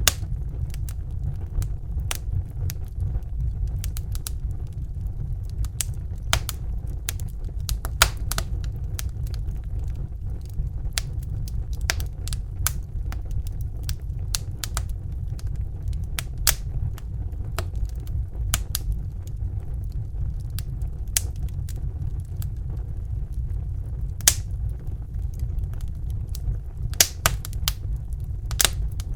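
Crackling wood fire: irregular sharp pops and crackles over a steady low rumble, with a few louder snaps about eight seconds in, near the middle and toward the end.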